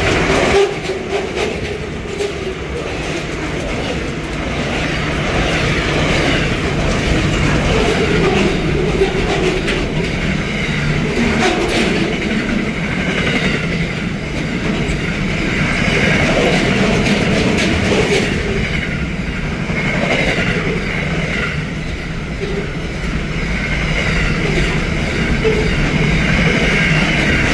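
Freight wagons of a long SCT Logistics train rolling past: a steady rumble of steel wheels on rail with clicks over the rail joints. Wavering high tones from the wheels come and go.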